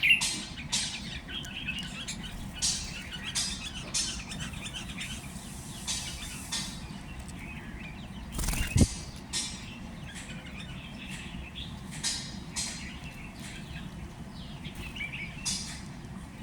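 Birds chirping, many short sharp calls repeating irregularly throughout, with one low thump about halfway through.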